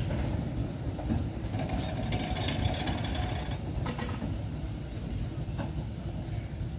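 Narrow-gauge train running past and away: a steady low rumble of the locomotive's engine and the carriage wheels on the rails, with a brief higher-pitched squeal and rattle about two seconds in.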